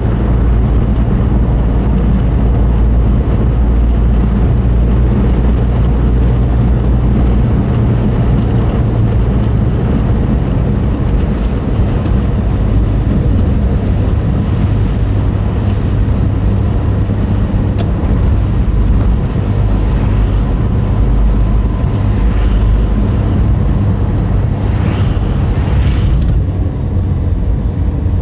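Car driving on the road, heard from inside the car: a steady low rumble of engine and tyres with road noise.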